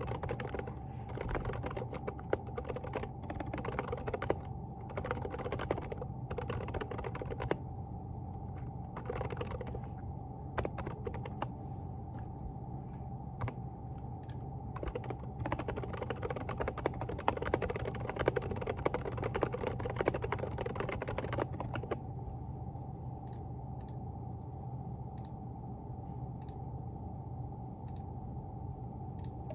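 Typing on a Groovestone GV10 mechanical keyboard with hand-lubed silent Coral 38 g switches: quick runs of soft keystrokes, thinning to scattered presses about two-thirds of the way through. A steady low hum runs underneath.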